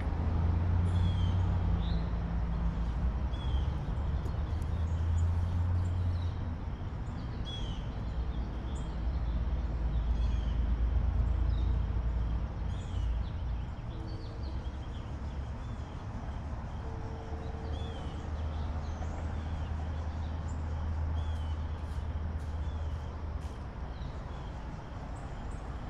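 A bird repeating a short high chirp about once every second or so, over a steady low rumble.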